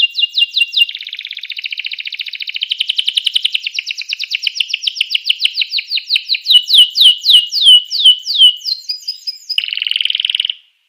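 Domestic canary singing in fast trill tours: runs of quickly repeated, falling whistled notes, about ten a second, that switch to new phrases every few seconds. A harsh, buzzy rolling trill comes near the end, then the song breaks off.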